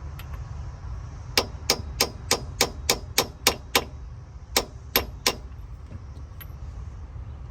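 Hammer blows tapping a metal part into place: a quick run of about nine ringing metallic clangs, a short pause, then three more. The part is being driven in until it sits flush.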